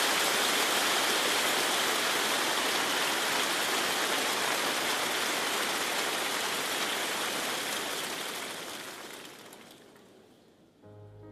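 A large concert audience applauding, a dense steady clatter of clapping that dies away over the last few seconds. Right at the end the orchestra comes in with soft, held low notes.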